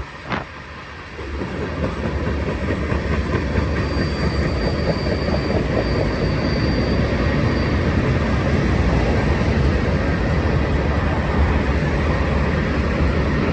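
Freight cars of a long Union Pacific manifest train rolling past on the climb, a steady rumble and rattle of steel wheels on rail that builds about a second in. A faint, thin high-pitched squeal rides over it from about four to eight seconds in.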